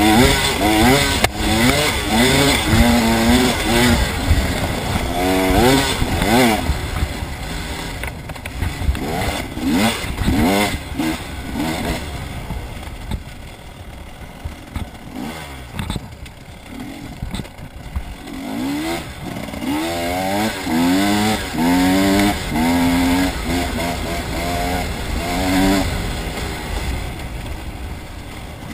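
Dirt bike engine revving hard around a motocross track, its pitch climbing again and again as the rider works the throttle and shifts. It eases off for a few seconds midway, then revs up repeatedly again.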